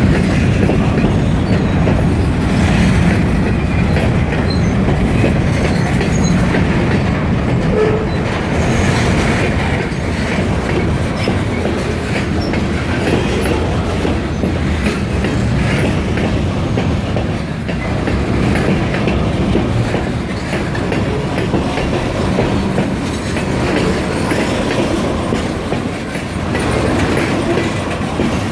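Freight train rolling past close by: a steady heavy rumble with continual clacking of wheels over the rail joints.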